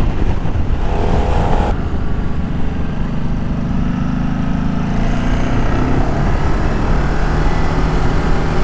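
Ducati Multistrada 1200 S's L-twin engine running under way, with heavy wind rumble on the microphone. The engine is held back by a seized exhaust valve that stops it revving past about 7,000 rpm.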